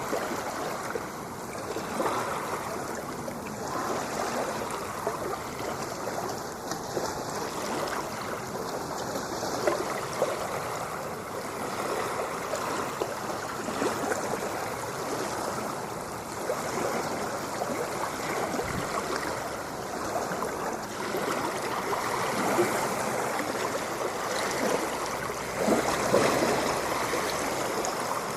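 Ocean water washing steadily, with small irregular surges.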